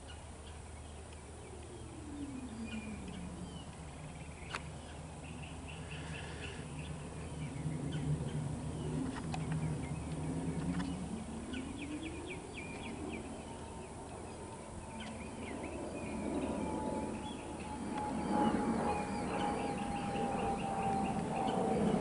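Outdoor ambience of small birds chirping and trilling, over a low hum that glides down, holds and glides back up. In the last third a low rumble with a long, slowly falling tone grows louder and becomes the loudest sound.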